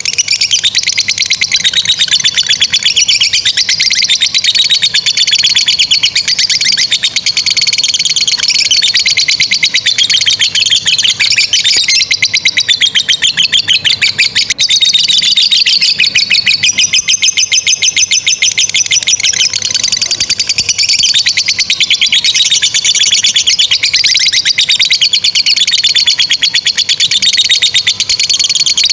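Lovebirds giving the long, rapid chattering trill called ngekek panjang: an unbroken run of very fast, shrill chirps whose pitch sweeps up and down.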